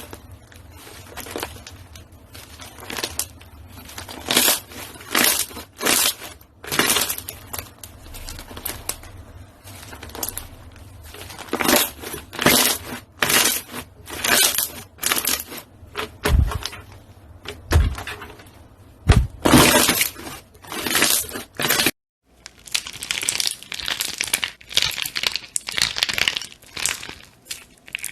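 Crunchy slime being squeezed and pressed by hand close to the microphone: irregular sharp crackles and pops in quick clusters. It breaks off for an instant about three-quarters of the way through, then resumes.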